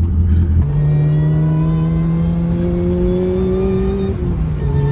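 Supercharged 2.2-litre four-cylinder engine of a Vauxhall VX220 pulling under load. Its note climbs slowly for a few seconds, dips briefly at a gear change about four seconds in, then pulls again.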